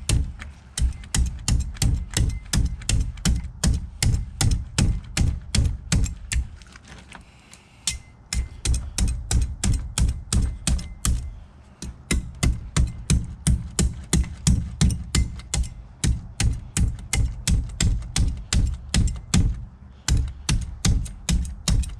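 Butcher knife chopping hard and fast through an alligator gar's armored scales and backbone, about three blows a second, with short pauses about six and eleven seconds in.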